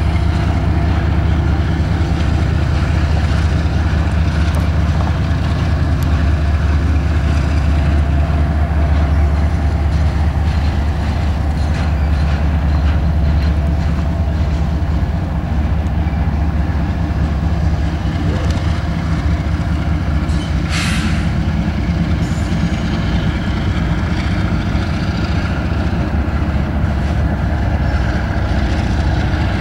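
Diesel locomotives of a CSX freight train running past, a steady heavy low rumble. A short hiss cuts in about two-thirds of the way through.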